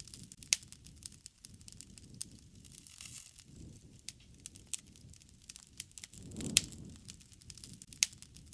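Wood fire crackling, with irregular sharp pops over a soft, low rushing of the flames. The low rushing swells briefly about six and a half seconds in, together with one of the loudest pops.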